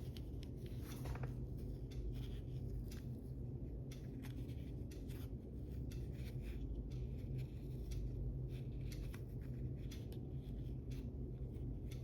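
Faint rubbing and small scratchy clicks of fingers pressing a foam insert into a tiny soft rubber RC truck tire, over a steady low hum.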